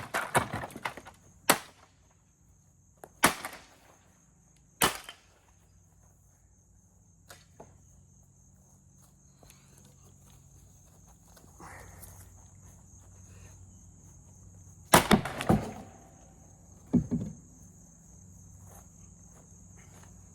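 A series of sharp, hard blows and cracks as a vacuum cleaner is struck and smashed in a durability test: several in the first five seconds, then a burst of them about fifteen seconds in and one more shortly after.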